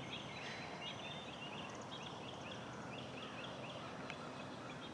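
Faint outdoor chorus of small animals calling: many short, high chirps repeating several times a second over a steady background hiss.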